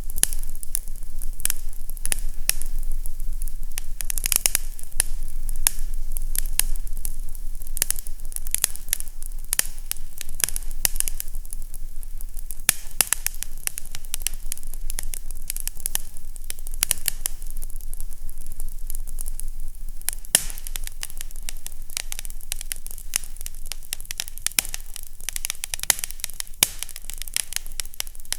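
Fireplace crackling steadily, with many small irregular pops and snaps over a soft hiss and a faint low hum.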